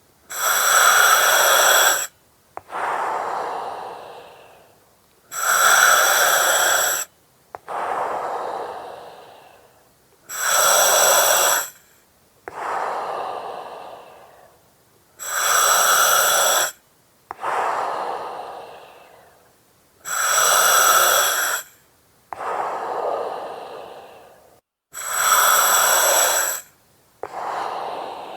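Slow, regular breathing through an oxygen mask and its regulator, about one breath every five seconds: each cycle has a hiss of about a second and a half with a faint whistle in it, starting and stopping abruptly, then a softer breath that fades away.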